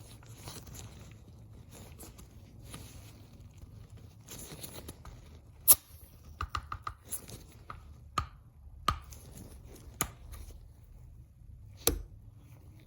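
Rustling followed by a series of sharp clicks from handling the parts of an Umarex Glock 19 Gen 3 CO2 BB pistol, the loudest click about halfway through and a quick cluster of clicks just after it.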